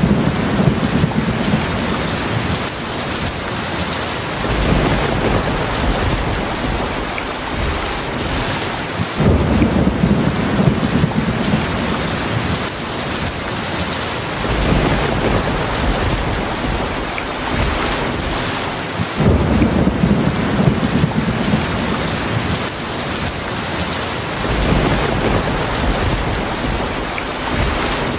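Heavy rain falling steadily in a thunderstorm, with low rumbles of thunder swelling up about every five seconds.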